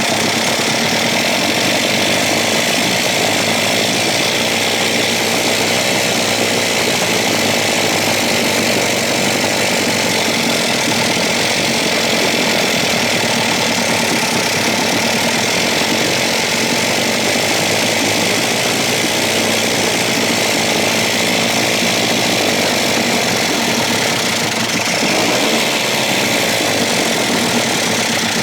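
A 1956 Evinrude 7.5 hp two-cylinder two-stroke outboard motor running steadily at a fast idle. It runs but has not yet been dialled in.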